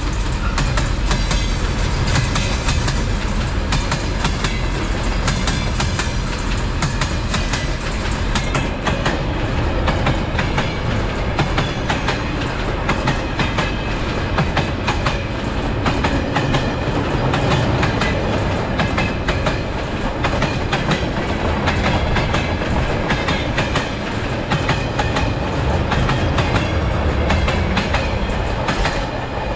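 Diesel-hauled rail train running on the track, its wagon wheels clicking steadily over the rail joints above a low, continuous rumble.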